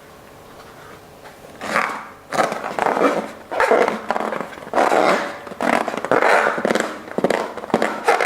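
Slime being squeezed and kneaded: a run of wet, crackly squelches about one or two a second, starting about a second and a half in.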